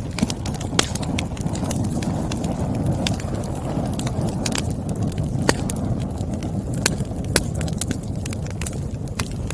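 Firewood burning and crackling: irregular sharp pops and snaps over a steady low rush of the flames.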